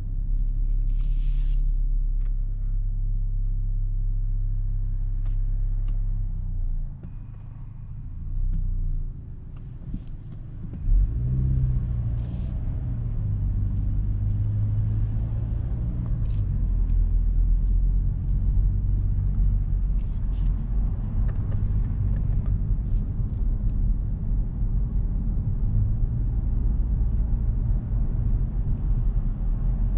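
Cabin sound of the 2022 Genesis G70 Shooting Brake's 2.0-litre turbocharged inline-four and road noise while driving: a steady low rumble. It drops away about seven seconds in, then comes back sharply about eleven seconds in with a rising engine note as the car accelerates, and runs steadily after that.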